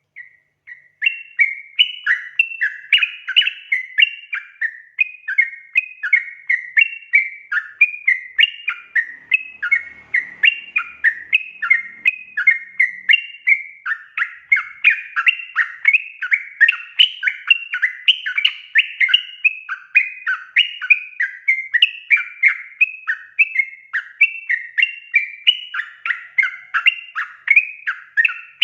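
Yellow-vented bulbul song: a rapid, unbroken stream of short bubbly chattering notes, starting about a second in after a brief silence.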